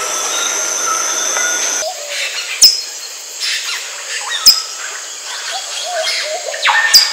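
Masked crimson tanager giving three sharp, high-pitched calls about two seconds apart, each a quick downward sweep, over softer, lower chirps from other birds. Before them, a steady high tone and a background chorus of a different rainforest recording stop about two seconds in.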